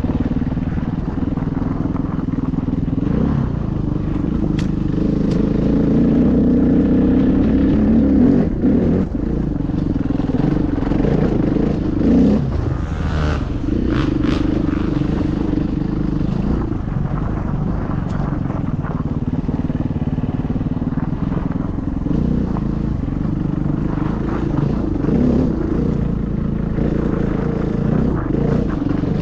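KTM EXC enduro motorcycle engine running hard, its pitch rising and falling as the throttle opens and closes through the gears. A few sharp knocks sound about halfway through.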